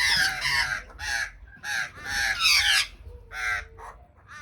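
Several birds calling harshly over one another, short rasping calls several a second, as they squabble over food. The calls thin out and grow quieter near the end.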